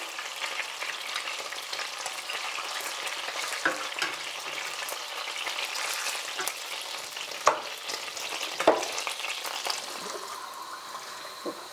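Chicken leg fillets frying in oil in a pan: a steady sizzle, growing a little quieter near the end. A few sharp knocks sound over it.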